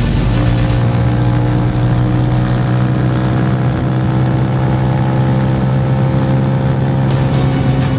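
Roadmaster Rapido 150cc motorcycle engine running at a steady speed through its exhaust, with an even note that does not rise or fall.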